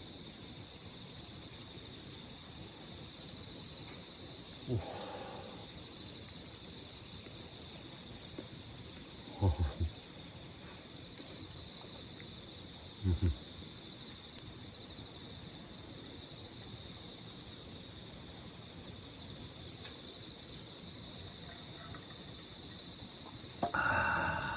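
Night insects, crickets among them, chirring in a steady high-pitched chorus. A few soft, short low sounds come and go in between, with a slightly louder one near the end.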